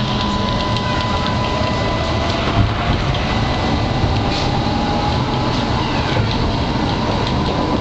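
Tatra tram running on its rails, with a steady wash of noise, a faint whine that slowly rises in pitch, and scattered sharp clicks from the wheels and track.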